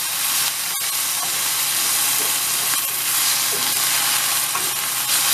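Toasted rice and tomato sauce sizzling steadily in an oiled nonstick frying pan on medium-high heat, stirred with a spatula. The tomato sauce has just gone in and is cooking off its raw taste.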